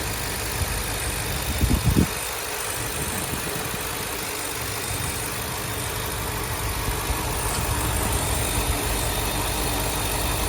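Ford 7.3 L Godzilla gasoline V8 idling steadily with a freshly replaced upper idler pulley, no tick or pop heard. A few quick thumps come just before two seconds in.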